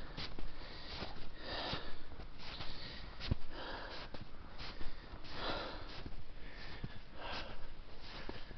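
A hiker breathing hard and repeatedly while climbing a steep snowy slope, with footsteps crunching in crusty snow.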